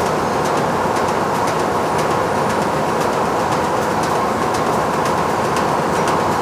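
Factory machinery running steadily with a continuous mechanical hum and a rapid, irregular scatter of light clicks and rattles over it.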